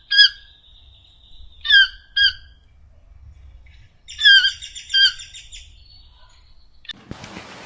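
Short, high-pitched chirping animal calls, mostly in pairs, about six in all. About a second before the end they cut off and a steady hiss begins.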